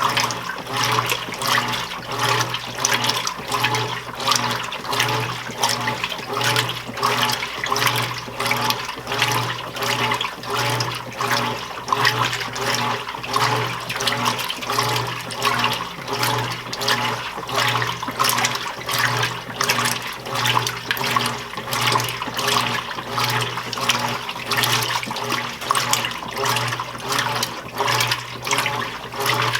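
Admiral belt-drive top-load washing machine agitating during its wash phase: water and clothes sloshing back and forth in a steady rhythm, with the motor humming in pulses as the single-action agitator swings.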